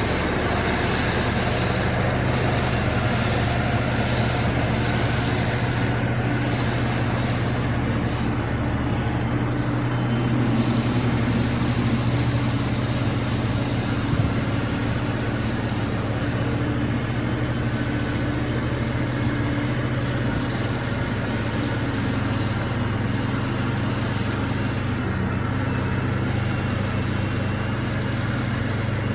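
Diesel engine of a heavy earthmoving machine running at a steady speed, a low continuous drone.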